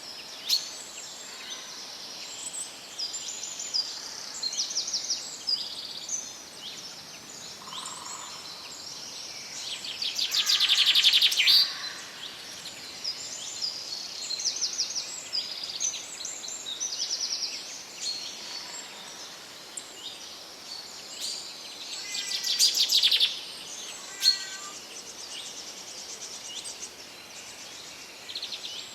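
Several small songbirds singing in a forest over a steady background hiss, with quick high chirps and trills throughout and two louder rapid trills, one about a third of the way in and one about three quarters of the way in.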